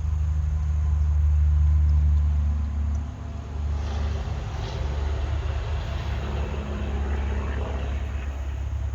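Motor oil pouring from a quart bottle through a funnel into the engine's filler, a rushing, gurgling noise from about four seconds in until near the end, over a steady low rumble.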